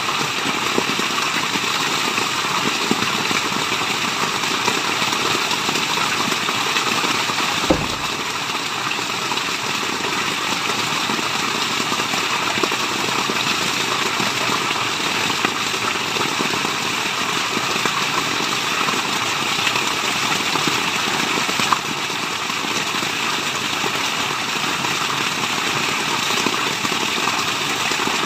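Steady rushing water, an even unbroken hiss of falling water. Two brief clicks break it, one about eight seconds in and one about twenty-two seconds in.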